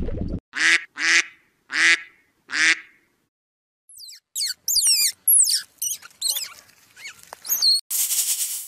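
A goose gives four short nasal honks in the first three seconds. Then come quick, high sweeping squeaks and chirps from a squirrel, and near the end a steady hiss from a snake.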